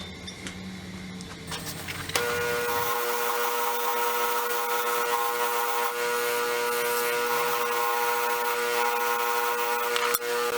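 Power-driven wire wheel brushing rust and grime off an old Kraeuter hand tool: a steady motor whine with the rough hiss of the wire bristles, starting abruptly about two seconds in.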